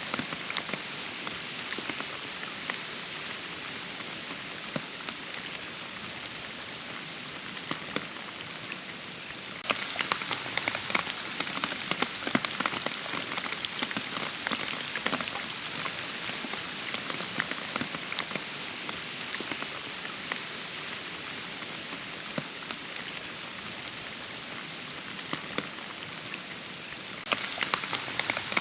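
Steady rain falling, a dense patter of many individual drops. About ten seconds in it suddenly turns louder with sharper, more distinct drops, then drops back just before the end.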